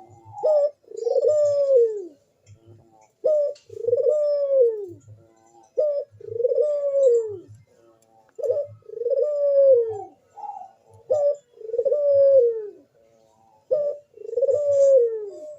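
Barbary dove (burung puter) cooing steadily. Each phrase is a short note followed by a long coo that rises and then falls, repeated about every two and a half seconds. This is the vigorous cooing of a bird in breeding condition.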